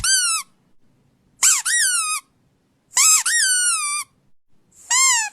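A squeaky dog toy is squeezed four times in quick succession. Each squeak is high and clear, kicking up in pitch and then sliding down, and lasts about half a second to a second, with short gaps between.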